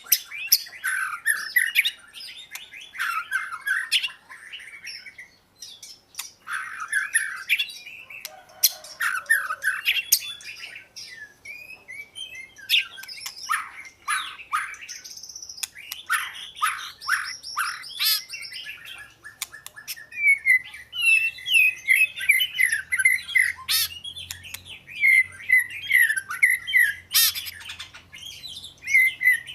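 Oriental magpie-robin singing: a long run of varied whistled phrases, quick trills and harsher squawky notes, broken by short pauses.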